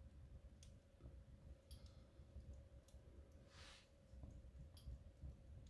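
Wood fire in a fireplace crackling faintly: a few scattered sharp pops and one brief hiss about three and a half seconds in, over a low steady rumble.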